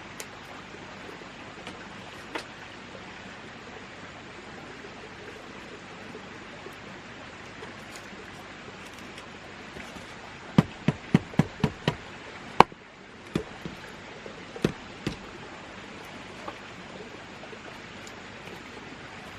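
Steady rushing background noise, with a quick run of about six sharp knocks some ten seconds in, then one louder knock and a few scattered knocks after it.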